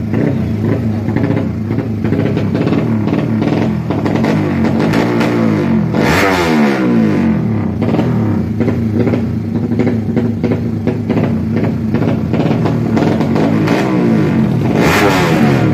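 Tuned Yamaha Jupiter MX drag-bike engines revving hard, with one engine note sliding steeply down in pitch about six seconds in and a loud blast near the end.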